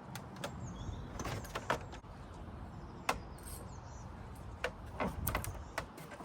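Handling noise from a small rod and spinning reel while a hooked fish is played: scattered sharp clicks and knocks over a steady low rumble.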